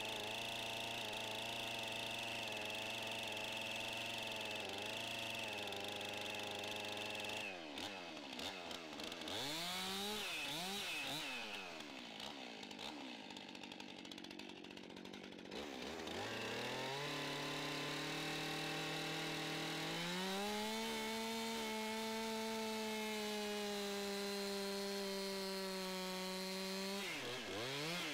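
Chainsaw working timber, its engine note changing with the throttle: steady at a lower pitch for the first seven seconds, then swinging up and down, briefly quieter, then climbing to a higher pitch held through most of the second half before dropping near the end.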